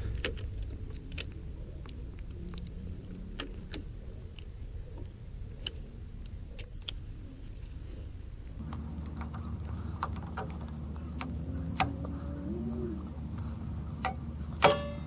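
Scattered light metallic clicks and clinks of drum brake hardware being handled while the top brake-shoe return spring is worked into place, with one louder ringing metal clank near the end.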